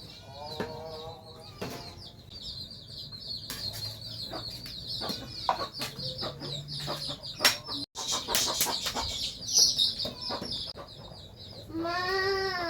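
Chickens clucking, over a steady high chirping, with scattered knocks and clicks.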